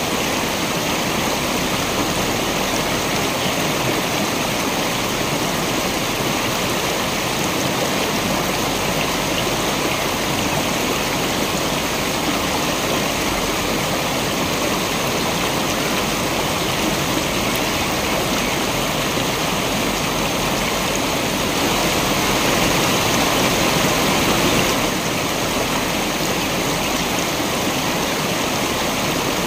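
Waterfall: steady rushing, splashing water, swelling a little louder for a few seconds about three-quarters of the way through.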